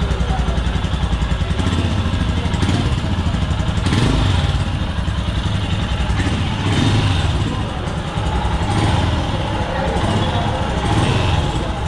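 Royal Enfield Himalayan 2021's 411cc single-cylinder SOHC engine running at idle through its stock exhaust, a steady rapid low thump. Its level swells and falls back a few times.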